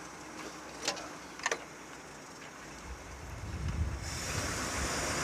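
Ford 300 gas inline-six in a TUG MA-50 baggage tractor running low, with two brief sharp sounds about half a second apart about a second in. From about three seconds the engine picks up, and at about four seconds a louder steady noise sets in as the tractor is put back under way.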